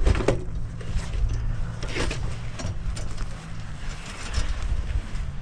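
Outdoor wind rumbling on the microphone over a low steady hum, with a few brief knocks and clicks of equipment being handled.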